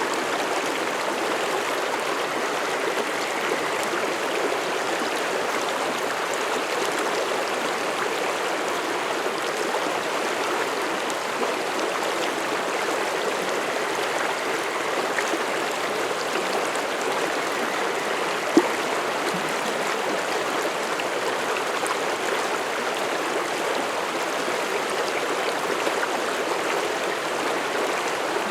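Forest mountain stream flowing over rocks in a steady, even rush. There is a single brief sharp click about two-thirds of the way through.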